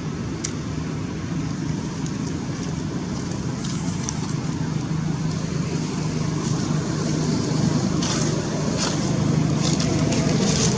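A steady low motor hum, rising a little in level, with scattered faint clicks over it in the last few seconds.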